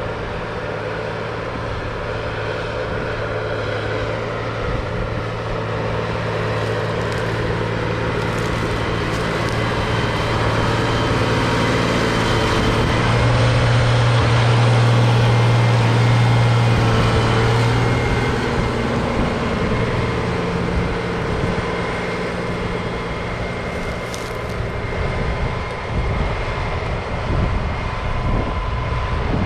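Heavy diesel farm machinery running steadily, its engine drone growing louder through the middle and easing off again.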